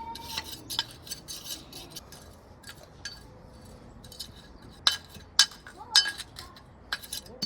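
Concrete patio pavers clinking and knocking against one another as they are set into a row: a scatter of sharp clicks, the loudest three coming close together about two-thirds of the way through.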